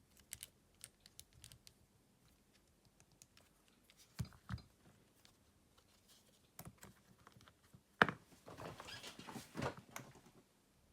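Faint small clicks and taps of a smartphone and small tools being handled during a repair, with two soft knocks about four seconds in, then a sharper click about eight seconds in followed by a couple of seconds of light scraping and rustling.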